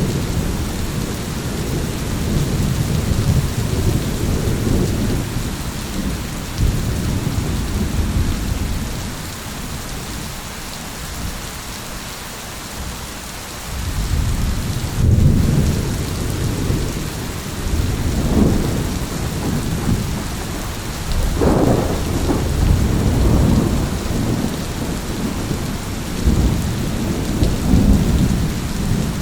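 Thunderstorm: steady rain hiss under rolling, low thunder rumbles. The thunder eases for a few seconds about a third of the way in, then builds again, with a sharper clap about two-thirds of the way through.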